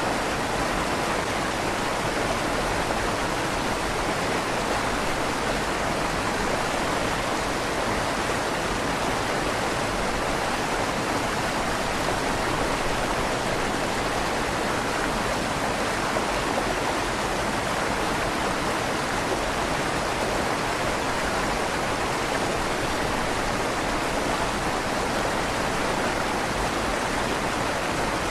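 River water flowing steadily beneath a stone bridge, a constant rushing with a slight echo off the inside of the stone tunnel.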